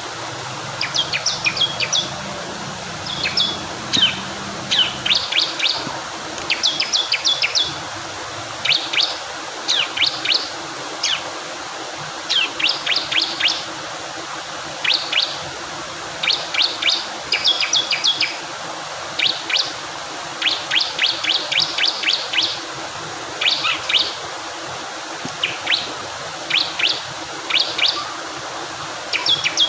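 Male bar-winged prinia (ciblek kristal) singing: short bursts of three to six rapid, sharp high chips, repeated every second or two. Steady rushing water runs underneath.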